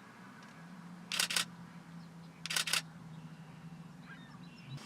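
Camera shutter firing in two short bursts of rapid clicks, a few frames each, about a second and a half apart: continuous shooting at birds. A faint low steady hum runs underneath.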